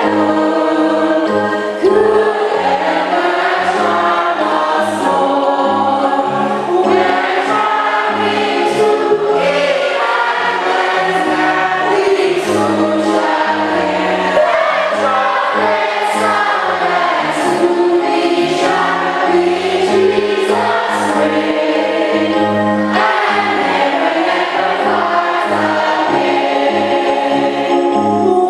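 A choir singing gospel music, steady and full throughout.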